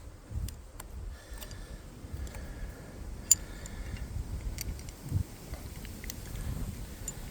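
Scattered light clicks and ticks, one sharper click about three seconds in, over a low rumble.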